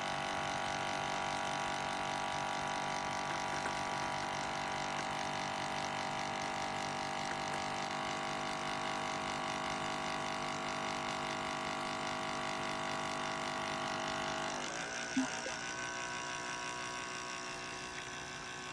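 WACACO portable electric espresso maker's pump buzzing steadily while it brews a lungo capsule. About three-quarters of the way through the pump tone changes, with a short click.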